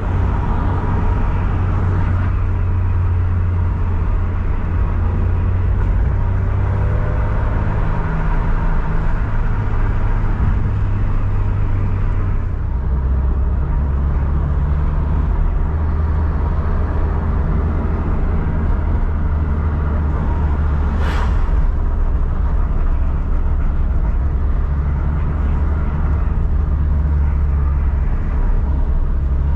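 Toyota 86's 2.0-litre flat-four engine and road noise while driving, a steady low drone. The drone drops in pitch about halfway through, and a brief high sweep cuts in about two-thirds of the way along.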